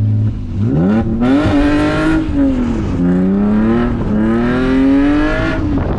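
BMW E46's engine revving hard from idle through a drift: the revs climb about half a second in, dip around three seconds in, climb again and drop back to idle near the end. A hiss runs under the high revs.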